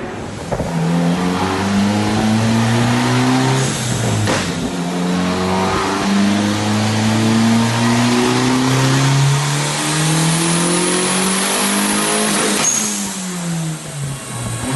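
Turbocharged Honda D15B 1.5-litre four-cylinder run on a chassis dyno, revving up through a pull. The pitch climbs, breaks about four seconds in, then climbs again for longer with a high whistle over it. Near the end the throttle closes and the revs fall away.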